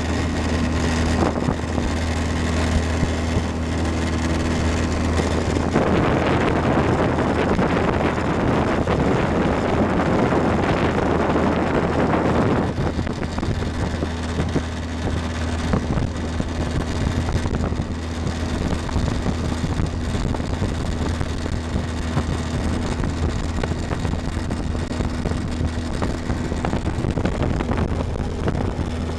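Motorboat engine running steadily with a low drone, wind on the microphone, and a louder rushing noise for about six seconds starting around six seconds in.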